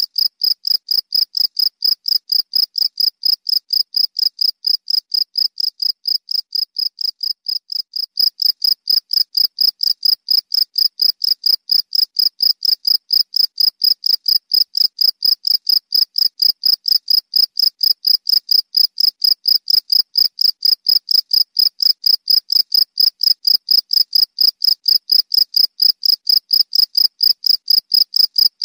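A cricket chirping steadily in a fast even rhythm of about four to five high-pitched chirps a second, slightly softer for a moment about six to eight seconds in.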